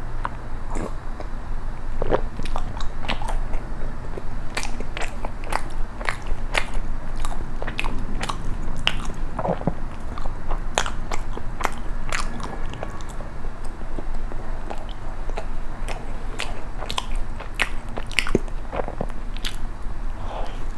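Close-miked eating of soft injeolmi cream bread with red bean paste: biting and chewing, with many irregular wet mouth clicks and lip smacks.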